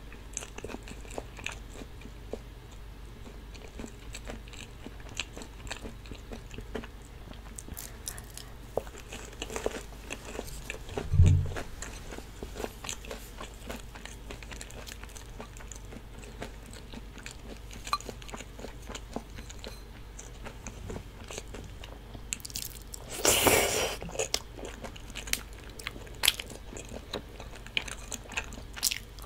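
Close-miked chewing and biting, with crisp crunches of fried batter from Korean twigim and soft chewing of tteokbokki rice cakes. There is a low thump about midway, and a louder noisy sound lasting about a second near the end.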